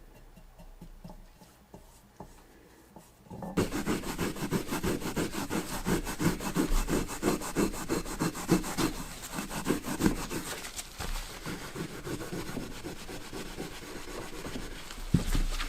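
Quiet for about three seconds, then a hand tool is worked back and forth on wood in quick, even rubbing strokes, about three a second.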